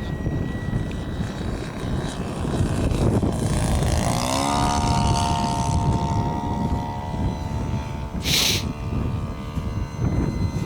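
RC warbird model plane's engine and propeller droning in flight, its pitch rising about four seconds in and then holding steady, under heavy wind buffeting the microphone. A short hiss about eight seconds in.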